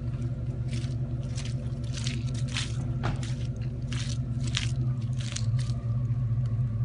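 Chevrolet Blazer V8 engine running steadily at low revs with the truck stopped, bogged in the mud. A string of short, sharp scuffs and clicks sounds close to the microphone over it.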